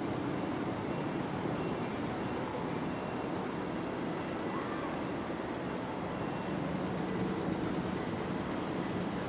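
Steady low outdoor rumble, with faint short high chirps a few times over it.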